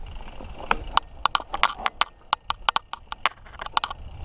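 Mountain bike rattling over rough trail: a quick, irregular run of sharp clicks and knocks, about four a second, over a low rumble.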